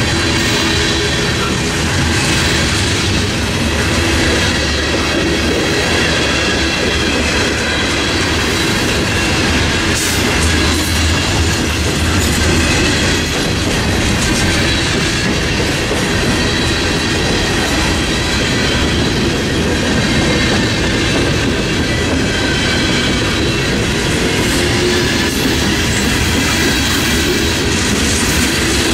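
Norfolk Southern freight train's cars rolling past at close range at a steady speed: tank cars, covered hoppers, a boxcar and open gondolas, giving a continuous, steady noise of steel wheels on the rails.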